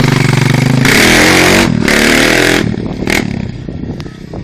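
A 250 cc dirt bike engine running at high revs. Partway through, its pitch falls and the sound fades over the last couple of seconds.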